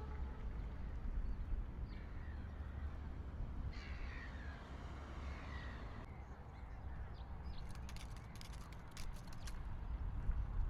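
A crow cawing, a couple of short harsh calls sliding down in pitch about four seconds in, over a low steady outdoor rumble. A quick run of sharp clicks follows near the end.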